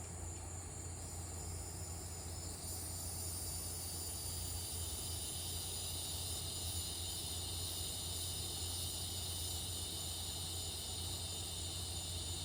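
Evening insect chorus of crickets and cicadas, a steady high shrill that gets louder about two and a half seconds in, over a steady low hum.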